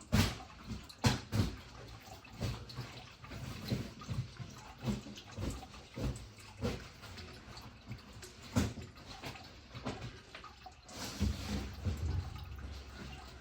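Irregular clicks and knocks of engine parts and tools being handled while stripping a V8's top end, likely the spark plug wires being pulled off. A few sharper knocks stand out.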